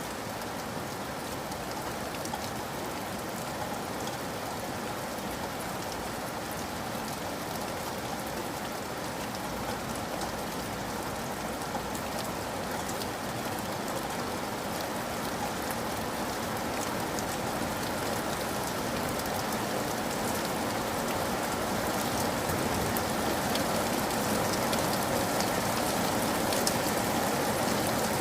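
Steady rain falling, an even hiss dotted with the ticks of single drops, slowly growing louder.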